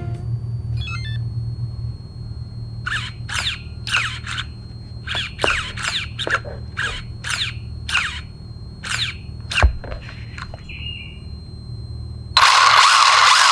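Brushless motor of a 1/16-scale RC drift car with a thin steady whine, blipped in about a dozen short bursts that each fall away in pitch. About a second before the end it is held on in one loud continuous run.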